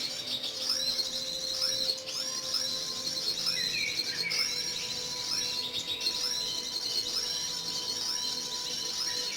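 Small birds chirping and twittering in quick, repeated high calls with no pause, over a faint steady hum.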